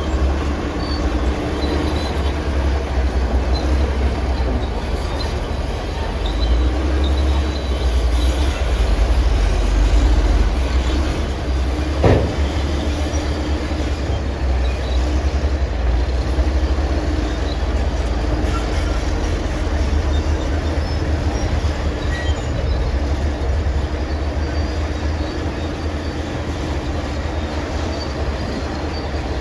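Bulldozer's diesel engine running with a steady low rumble and the clatter of its steel tracks, with one sharp knock about twelve seconds in.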